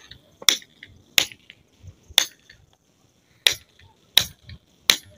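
Hammer strikes on a building site: about six sharp blows, each about a second apart.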